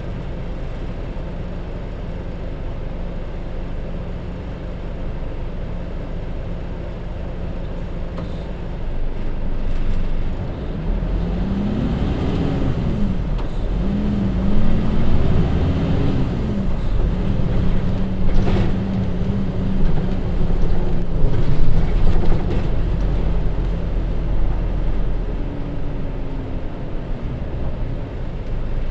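Hino J07E diesel engine of a Hino Rainbow HR bus idling steadily, then about ten seconds in the bus pulls away. The engine note rises and drops three times as the DD5M five-speed manual gearbox shifts up, then holds steady before easing off near the end.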